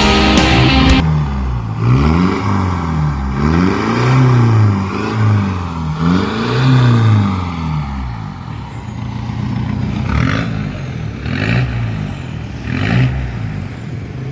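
Exhaust note of a Mitsubishi Pajero Sport Dakar through an aftermarket stainless-steel tailpipe as the engine is revved repeatedly: about six rises and falls in pitch over the first several seconds, then shorter, lighter blips. A music track cuts out about a second in.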